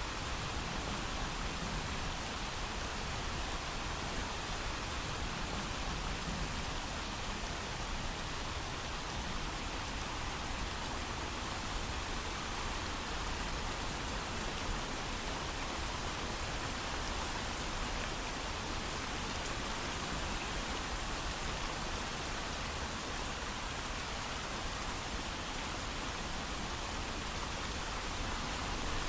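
Steady heavy rain with no thunder: a dense, even hiss of rainfall that holds unchanged throughout.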